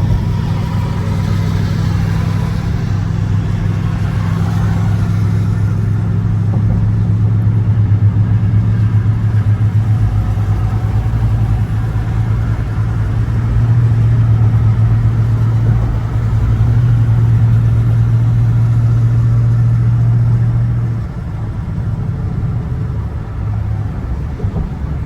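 Dodge Scat Pack's 6.4-litre Hemi V8 running at a steady highway cruise, a continuous low drone that eases off near the end.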